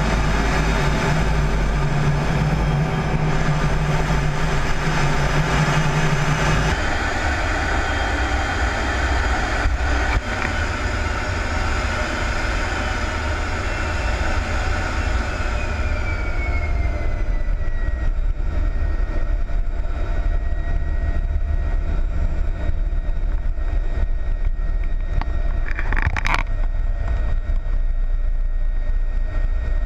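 Steady jet engine and airflow noise inside an F-16D Fighting Falcon's cockpit. Its low hum changes about seven seconds in, a faint high whine glides downward in the middle, and there is a brief click near the end.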